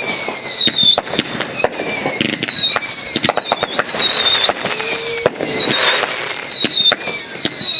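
Fireworks display: many whistling shells, each whistle falling in pitch over about a second and overlapping one another, mixed with a rapid string of sharp bangs and crackles.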